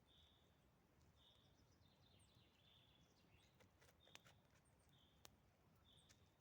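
Near silence in woodland, with a bird's faint, short high chirps repeating about once a second and a few faint clicks.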